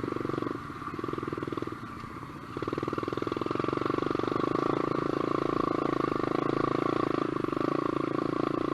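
SSR125 dirt bike's single-cylinder four-stroke engine running under way, the throttle eased off twice in the first few seconds and then held steady.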